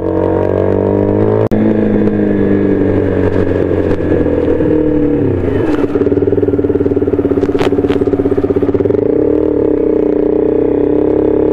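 Sport motorcycle engine, its note falling as the bike slows, then idling with a steady pulsing beat from about six seconds in. A brief cut-out in the sound comes about a second and a half in.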